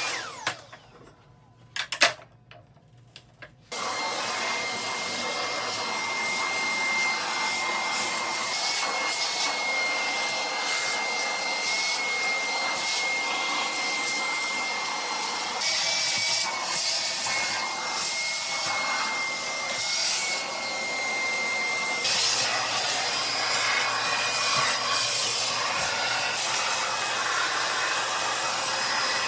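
Milwaukee M18BLCV2 cordless vacuum cuts out at the start, leaving a near-quiet gap with a couple of sharp clicks. It comes back suddenly about four seconds in and runs steadily with a high motor whine over its suction noise.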